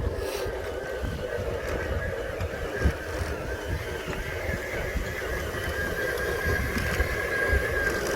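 A small geared electric motor whining steadily, its pitch holding near-constant and growing louder after about five seconds, over a low rumble with irregular bumps.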